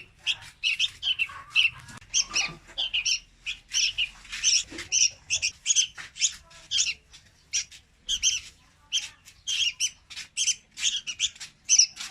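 Young red-whiskered bulbuls calling: a fast, unbroken series of short, sharp chirps, about three a second.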